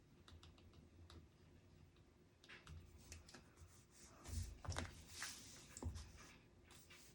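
Faint desk sounds of someone studying: scattered light clicks and taps, then a few louder knocks and a short rustle between about four and six seconds in.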